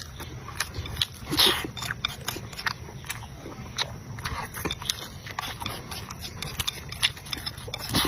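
Close-miked chewing with wet lip-smacking: many small, sharp mouth clicks, with one louder burst about a second and a half in.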